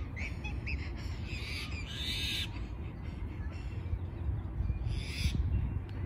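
Bird calls in three short bursts, near the start, about two seconds in and about five seconds in, over a steady low rumble.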